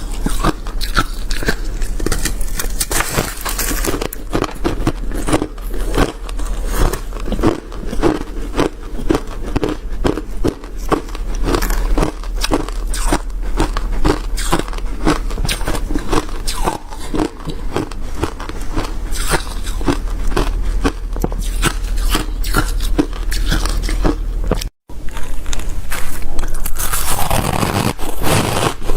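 Chewing of hard shaved ice mixed with crushed hard ice: a steady run of close-packed crunches from big bites. After a brief break near the end, louder crunching follows.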